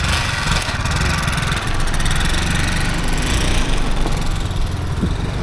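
Motorbike engine running steadily with a fast, even firing pulse.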